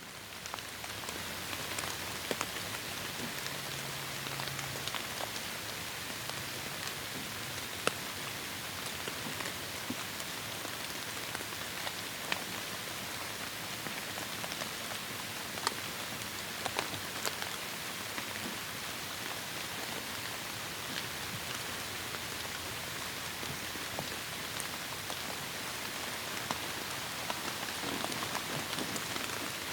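Heavy rain falling in a rainforest: a steady even hiss, with many sharp ticks of single drops scattered through it. It fades up from silence in the first second, then holds level.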